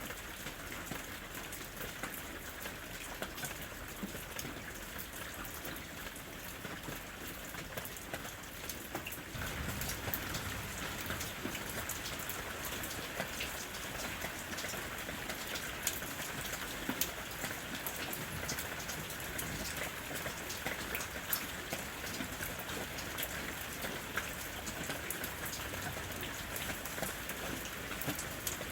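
Steady rain falling in a forest, with many separate drops hitting close by. It grows a little heavier about nine seconds in.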